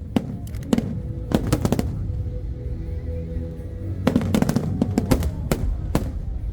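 Fireworks exploding in rapid volleys of sharp bangs, in clusters near the start and again from about four seconds in, with a lull between. Music plays underneath.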